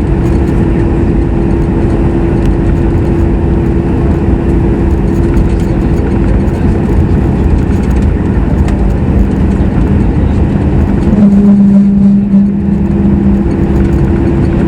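Cabin noise inside a Boeing 737 MAX 8 in flight: a steady roar from its CFM LEAP-1B engines and the airflow, with a low steady hum. About eleven seconds in, the hum grows louder for a couple of seconds, then settles.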